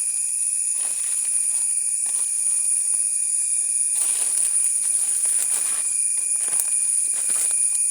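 A steady, loud, high-pitched drone of insects in tropical countryside, with scattered faint rustling clicks underneath.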